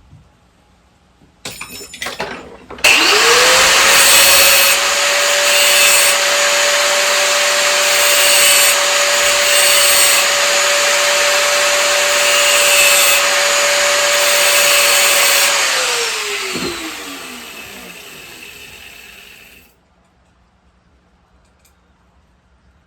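A power tool's motor spins up, runs at a steady speed for about twelve seconds, then is released and winds down, with a few clicks just before it starts.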